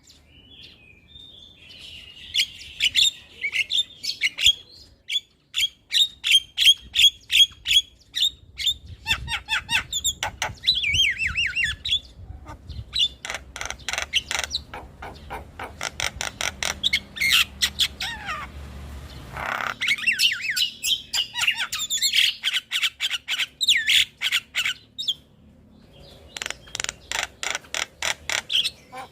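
Javan myna calling: fast runs of sharp repeated chattering notes mixed with squawks and a few falling whistles, with a harsh raspy stretch about two-thirds of the way through.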